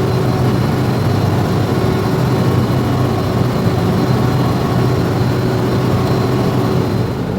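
Large diesel generator engine running at a steady speed, a continuous low drone with a faint steady whine above it.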